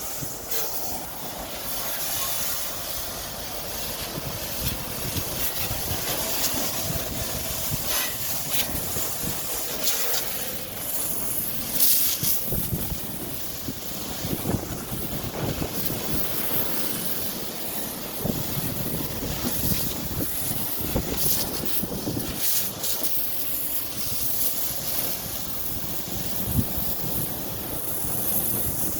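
Jet of water spraying onto a vehicle's body: a steady hiss with irregular splashing spikes.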